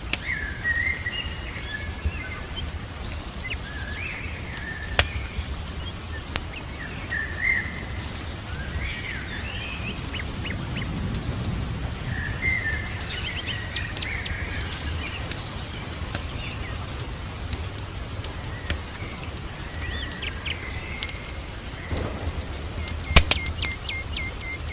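Birds chirping and calling again and again over a steady background hiss of rain, with a few sharp crackles from a wood fire, one about five seconds in and a louder cluster near the end.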